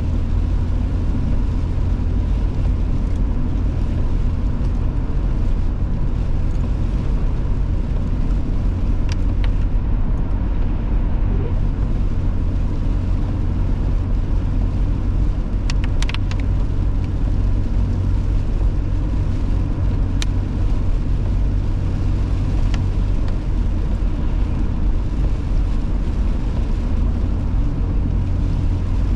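Steady low rumble of a car's engine and tyres heard from inside the cabin while driving on a salted winter road, with a few faint brief clicks scattered through.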